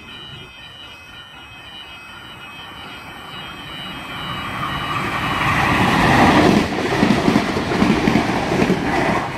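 NSW TrainLink Xplorer diesel railcar set passing a station platform. Its noise builds over several seconds to a peak about six seconds in, then turns into a rhythmic clatter as the cars go by.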